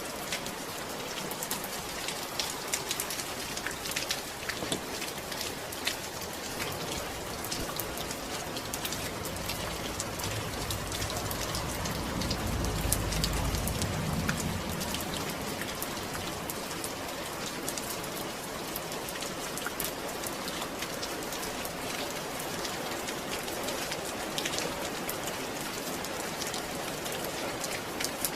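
Steady rain falling, a dense patter of drops on a surface. A low rumble swells and fades around the middle.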